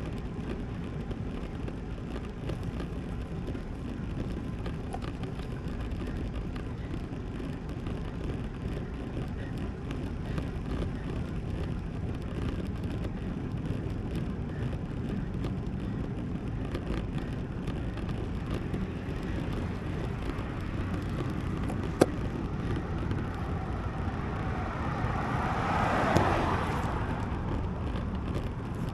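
Steady wind and road noise on a bicycle-mounted camera while riding, with one sharp click about two-thirds of the way through. Near the end a car passes, its sound swelling up and then fading away.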